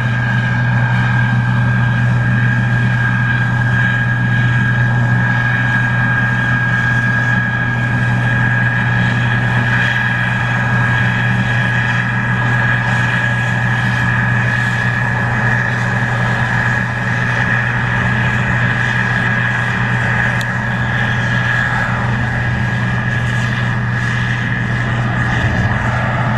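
Case IH 2144 Axial-Flow combine running steadily while harvesting corn: a low, even engine drone with a steady high whine over it.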